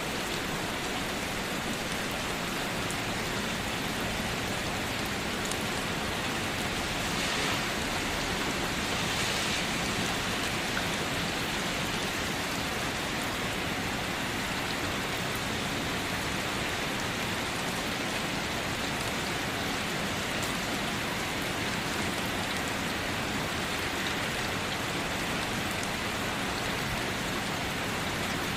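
Steady rain falling, an even, continuous wash of drops, briefly a little louder about 7 to 10 seconds in.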